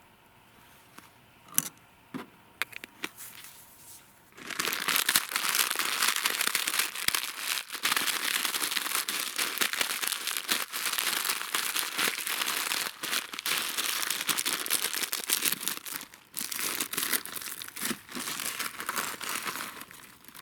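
A few light clicks, then from about four seconds in a close, continuous crinkling and rustling noise with many sharp crackles, lasting until just before the end.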